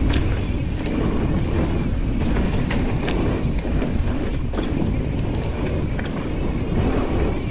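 Nukeproof Reactor mountain bike riding fast along a dirt trail: steady wind buffeting on the microphone and tyre rumble, with scattered sharp clicks and rattles from the bike over bumps.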